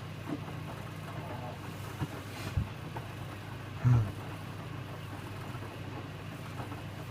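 Electrolux W455H commercial washing machine running its wash, a steady low hum with two short low thuds, the louder one about four seconds in, as the drum turns a load of towels.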